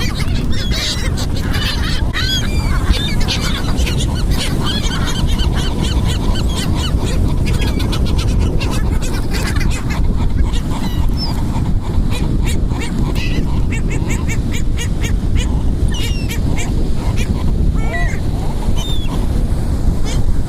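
A flock of seagulls calling, many short overlapping cries throughout, over a steady low rumble.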